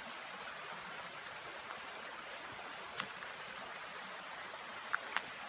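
Steady, soft rush of a shallow creek running over rocks, with one sharp click about halfway through and two brief high ticks near the end.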